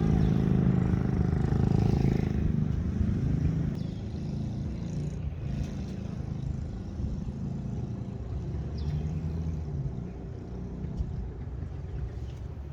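A motor vehicle engine running, louder for the first two or three seconds and then settling to a lower, steady hum.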